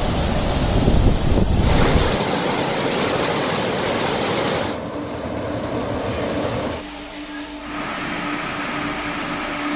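Loud rushing noise of floodwater with wind, changing abruptly several times. A steady low hum runs under it from about five seconds in.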